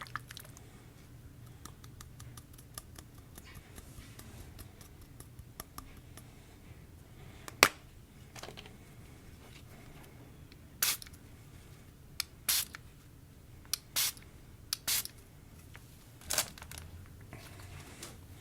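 Slime being worked by hand while activator is added: faint crackles, then one sharp click about seven and a half seconds in, then five or six short noisy bursts in the second half.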